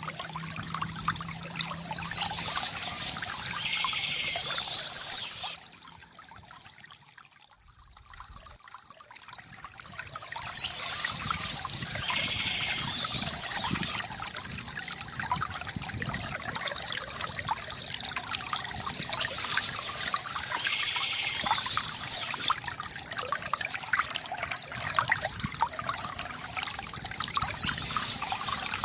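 Stream water trickling and splashing steadily, dropping much quieter for a few seconds about six seconds in before it picks up again.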